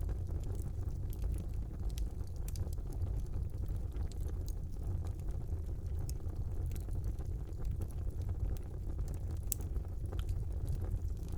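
Wood fire burning in a fireplace: a steady low rumble of flames with scattered sharp crackles and pops, one louder pop about nine and a half seconds in.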